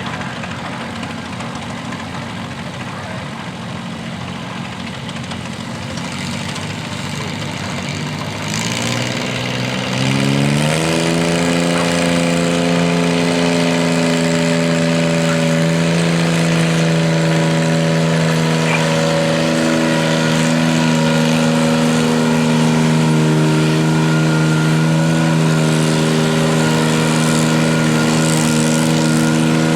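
Garden tractor engine running at low revs, then revving up over about two seconds, a little over a quarter of the way in, and holding at high, steady revs, as at full throttle for a pull.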